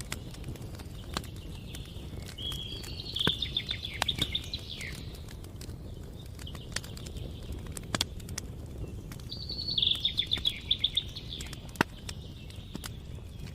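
Campfire crackling, with scattered sharp pops over a low steady rumble of burning. A songbird sings two rapid trilled phrases, about three seconds in and again about ten seconds in.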